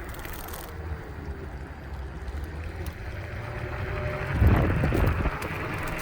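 Wind buffeting the microphone and road rumble from a Wolf Warrior electric scooter underway, with a faint whine. A louder gust of rumble comes about four and a half seconds in and lasts under a second.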